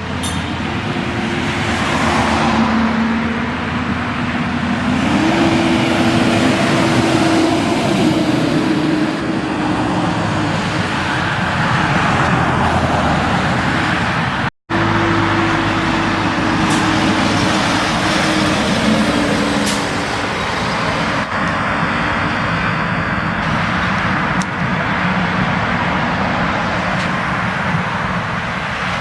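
Heavy trucks' diesel engines running on a road over steady road noise, the engine note stepping up and down as they shift gears.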